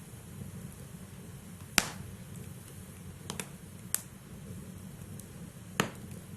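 Wood fire burning in a fireplace, with a low steady rumble of flames and sharp crackles and pops from the burning logs, the loudest about two seconds in and near the end.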